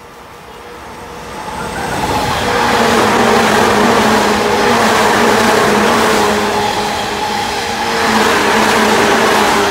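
JNR 185 series electric multiple unit passing through a station at high speed without stopping: the rush of wheels on rail grows from about a second in, then holds loud and steady with a steady low hum as the long train runs by.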